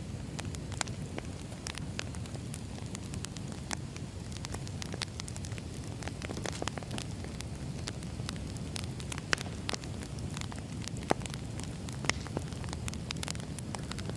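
Firewood burning: a steady low rush of flame with constant small crackles and snaps of the wood, and two louder pops about nine and eleven seconds in.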